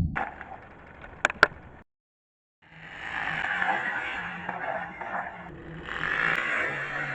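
Lego truck: two sharp plastic clacks about a second in, then, after a brief dropout, a steady scraping rattle of its bricks and wheels.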